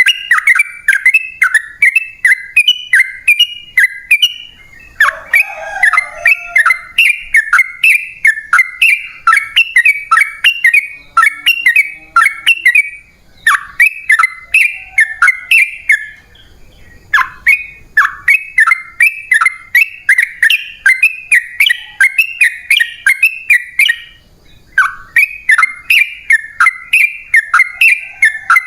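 Yellow-vented bulbul singing long rapid runs of bubbly chattering notes, about three to four notes a second, broken by a few brief pauses.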